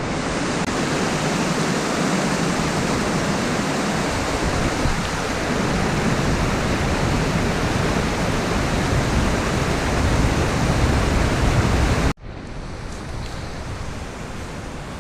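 Steady rush of falling water from a mountain stream or waterfall. About twelve seconds in it cuts off suddenly and gives way to a quieter rush.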